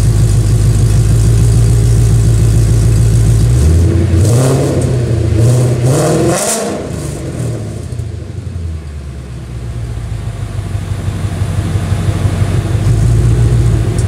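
Ford Mustang GT's 5.0 V8 idling through its exhaust, then blipped once: the revs climb for about three seconds, drop back, and settle to a steady idle again.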